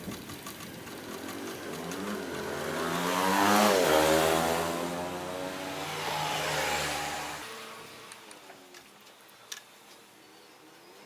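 A motor vehicle engine passes by, growing louder to a peak about four seconds in, then fading away.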